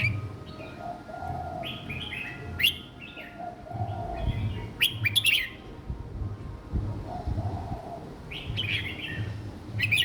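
Young red-whiskered bulbul singing short, quick whistled phrases, three bursts of song a few seconds apart.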